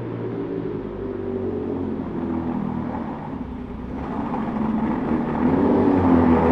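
A car engine running, growing louder and rising in pitch over the last couple of seconds.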